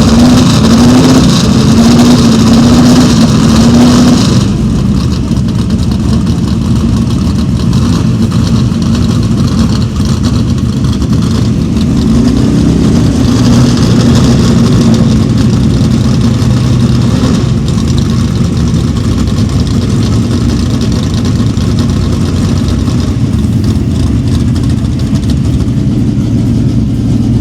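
Big American V8 engines of Super Stock drag cars (a Dodge Polara and a Plymouth Duster), loud, blipped up and down several times for the first four seconds, then settling to a steady idle with one more short rev about thirteen seconds in.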